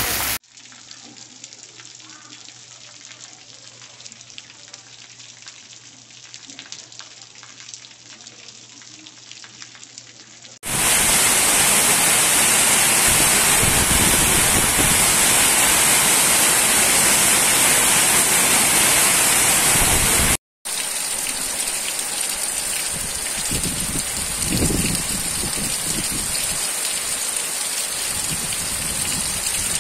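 Heavy rain heard in three successive recordings. First comes faint rain under a steady low hum. About ten seconds in it cuts to a much louder, even hiss of downpour. About twenty seconds in it cuts again to rain with water streaming off a roof edge.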